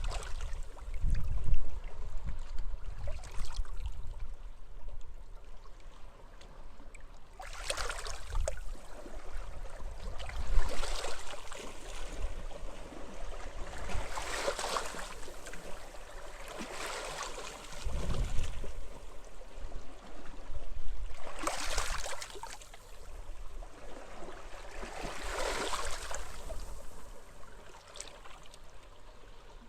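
Small sea waves washing up on a beach, each wash swelling and fading about every three to four seconds, with wind rumbling on the microphone now and then.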